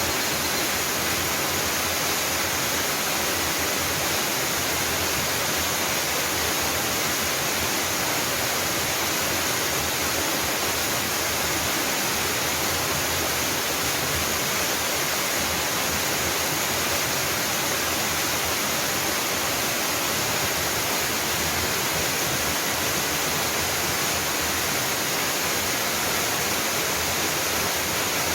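Waterfall: water falling and splashing in a steady, unbroken rush of hiss.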